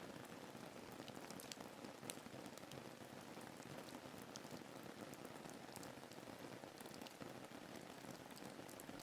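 Faint, steady rain ambience: an even hiss of rainfall with scattered sharp drop ticks.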